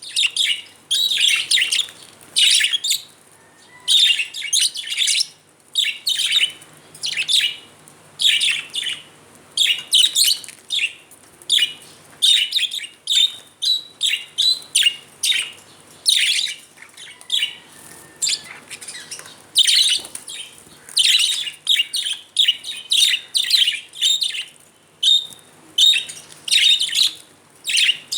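Budgerigars chirping and chattering in irregular bouts of quick, high warbling notes with short pauses between.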